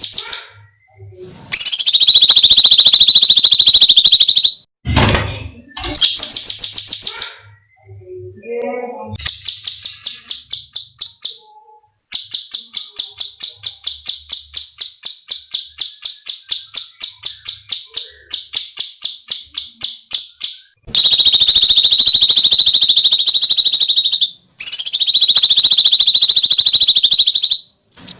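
Cucak cungkok songbird calling loudly on a masteran recording: drawn-out harsh, rasping high screeches alternating with fast rattling runs of sharp repeated notes, about five a second. The longest run of repeated notes comes in the middle, and two long screeches follow near the end.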